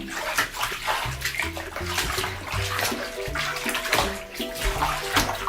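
Water sloshing and splashing in a bathtub as a bed cover is washed by hand, over background music.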